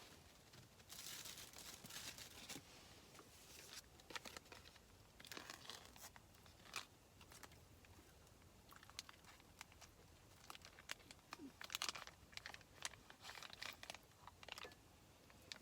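Faint, irregular rustling and crinkling in short bursts, with a few light clicks.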